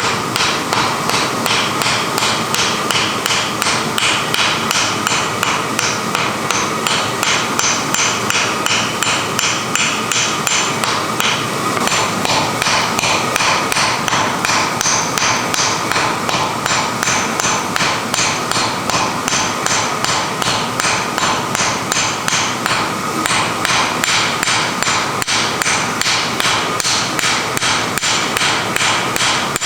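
Steady, rapid hammer blows on iron over an anvil, about three strikes a second, each ringing briefly, as wrought iron is forged.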